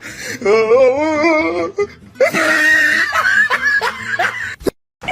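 High-pitched human laughter in wavering peals, with a short break about two seconds in before a shriller stretch, cut off abruptly near the end.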